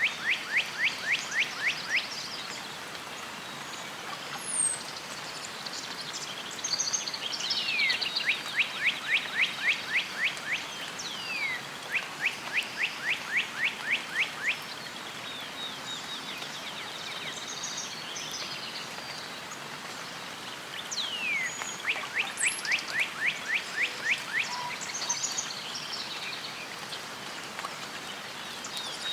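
A songbird singing fast trills, each a run of quick downward-sweeping notes lasting two to three seconds, four times over, with a few other short bird calls over a steady outdoor hiss.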